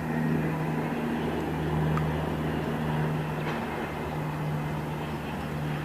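Steady low engine hum, unchanging in pitch, under a broad rushing haze, with a couple of faint ticks.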